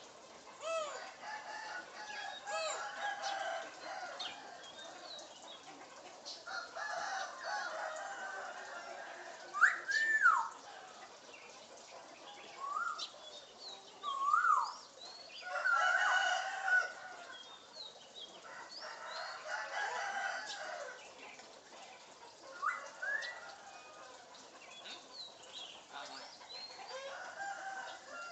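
African grey parrot vocalizing in bursts: pitched calls alternating with short whistles that slide up and down, the loudest whistles about ten to fifteen seconds in.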